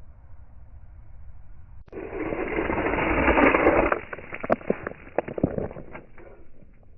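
Slow-motion sound of 1/64 scale diecast toy cars crashing. A rolling rush builds for about two seconds and cuts off near the middle, then comes a scatter of sharp clicks and knocks as the metal cars hit and tumble.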